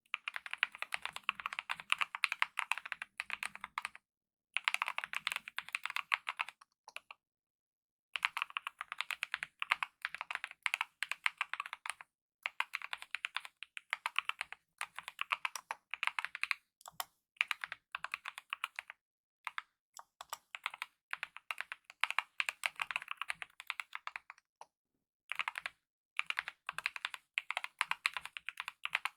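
Typing on a Kemove DK mechanical keyboard with lubed optical red (linear) switches and DSA-profile keycaps: fast runs of keystrokes broken now and then by pauses of about a second.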